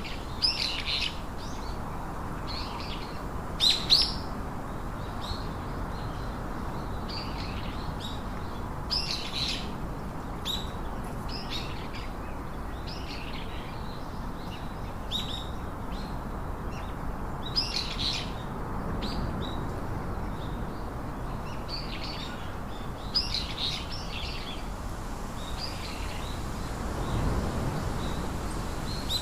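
Small birds chirping in short calls at irregular intervals over a steady background hiss, with a low rumble swelling briefly near the end.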